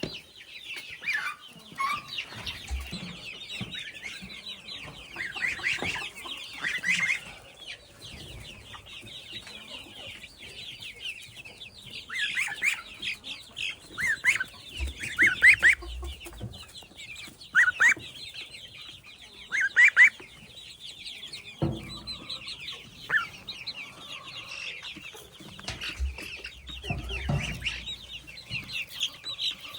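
A brooder full of young poultry peeping: a dense, continuous chorus of high chirps, with a few louder single calls standing out and some low thumps.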